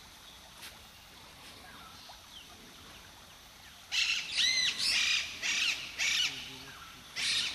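A bird calling loudly in a quick series of short, high notes that rise and fall, starting about halfway through, with another call near the end. Before that there is only quiet outdoor background with a few faint chirps.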